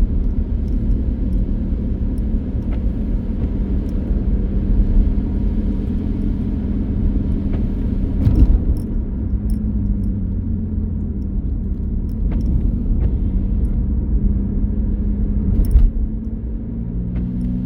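Car driving: steady engine and road rumble, with two short knocks, about 8 and 16 seconds in.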